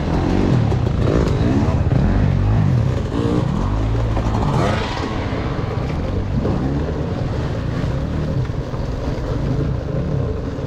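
Dirt bike engine running along a trail, its pitch rising and falling repeatedly as the throttle is worked.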